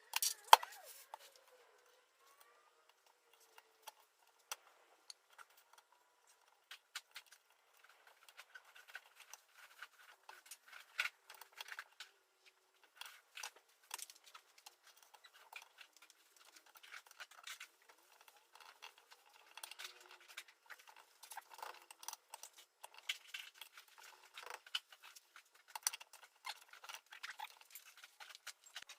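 Scattered light clicks and taps of small hard parts being handled, with a sharper knock about half a second in.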